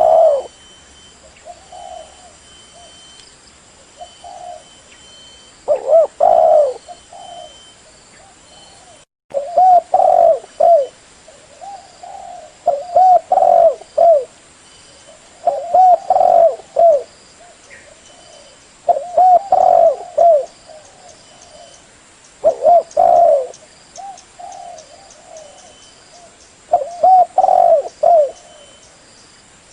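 Spotted dove (tekukur) cooing: phrases of several low coos repeated every few seconds, as in a lure call. The sound drops out briefly about nine seconds in.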